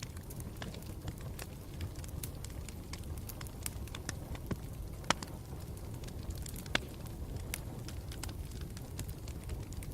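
Wood campfire burning with a steady low rumble and irregular crackles and pops, the sharpest snap about halfway through.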